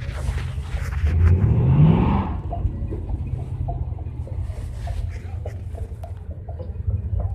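Car engine rumbling at idle, revved once about a second in, its pitch rising briefly before it settles back to a steady low rumble.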